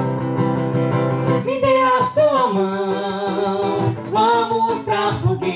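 Acoustic guitar playing with a voice singing a melody over it. The music cuts in suddenly at the start.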